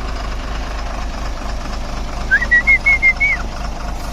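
A truck's engine running steadily, with a quick run of about six short, high beeping notes about two seconds in.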